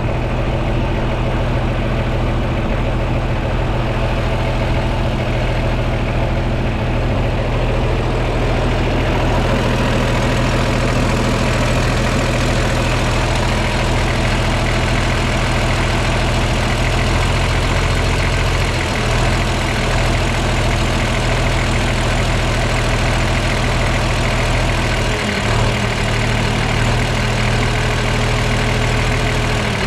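John Deere 4520 diesel tractor engine idling steadily, its fuel pump being worked on; the engine note shifts slightly about 25 seconds in.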